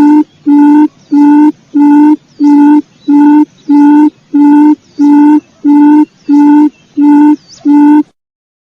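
Recorded quail lure call: one low, steady hooting note repeated evenly a little under twice a second, about fifteen times. Faint high chirps from another bird sound behind it, and the recording stops suddenly about eight seconds in.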